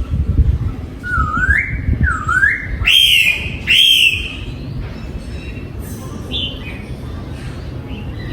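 Oriental magpie-robin singing: a series of clear whistled notes. Two rising whistles are followed by two louder, higher notes about a second apart, then softer notes trail off.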